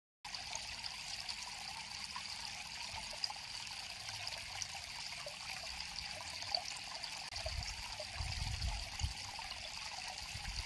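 River water flowing and trickling, with small splashes and bubbling. A low rumble swells briefly near the end.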